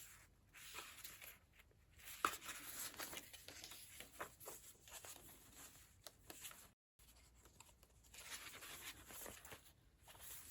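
Faint, intermittent rustling of paper pages being handled and turned in a handmade junk journal, with a few light clicks.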